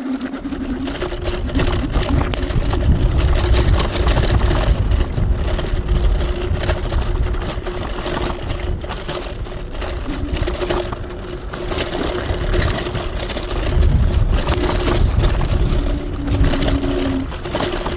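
Electric hyperscooter riding over rough off-road ground: the motor whines steadily, shifting pitch a few times with speed, over a heavy low rumble of wind on the microphone and frequent knocks and rattles from the bumps.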